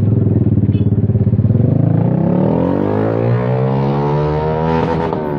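A motor vehicle's engine running close by, then rising steadily in pitch from about two seconds in as it accelerates.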